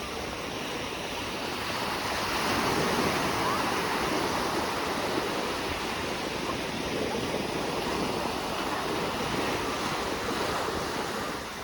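Ocean surf washing onto a beach: a steady rush of waves that swells a little about two seconds in.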